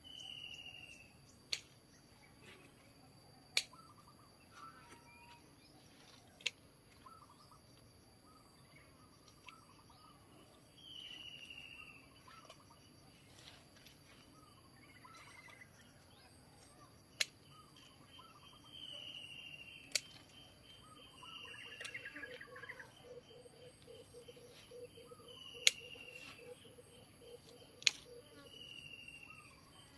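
Birds calling outdoors, one repeating a short call that falls in pitch about every few seconds, over a steady high-pitched hum. Sharp clicks or snaps ring out now and then, about seven times, louder than the birds.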